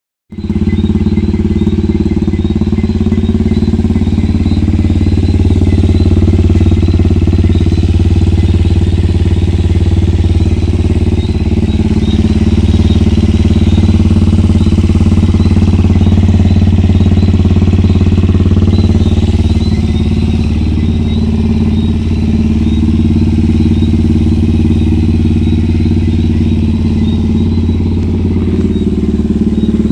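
A JH150GY-8 motorcycle engine running steadily at idle through its Torbal exhaust.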